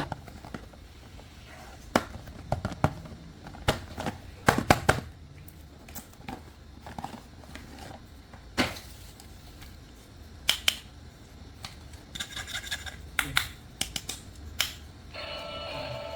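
Toys and plastic packaging being handled, with irregular clicks, taps and knocks of plastic. Near the end a steady electronic tune begins.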